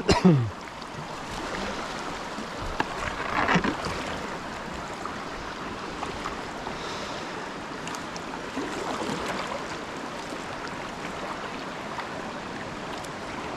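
Whitewater rapid rushing steadily around a kayak running it.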